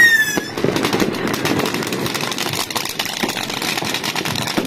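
Fireworks going off: dense, rapid crackling of firecrackers and rockets, with a short falling whistle at the very start.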